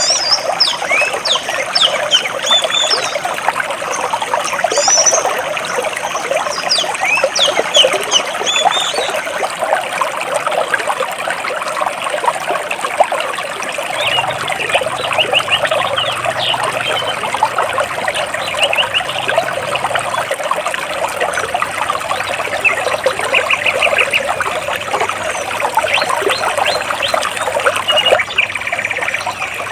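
Stream water babbling and splashing between large rocks, steady throughout, with small birds chirping over it: quick high chirps in the first several seconds, and a short rapid trill about two-thirds of the way through.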